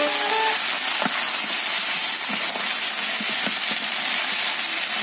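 Chicken paella sizzling steadily in its pan over a wood fire, with a few small pops. Background music ends about half a second in.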